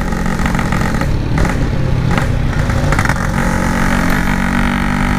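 Yamaha RX-King's 135 cc two-stroke single-cylinder engine running at a steady speed through a 'standart belek' packing-power exhaust.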